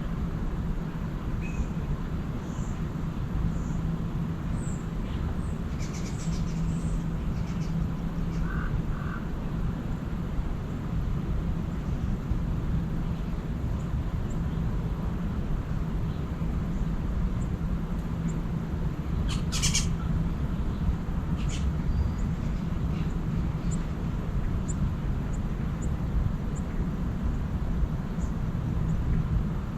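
Wild birds calling at dawn: scattered short, high chirps, two lower notes about a third of the way in, and one louder call about two-thirds in, over a steady low background rumble.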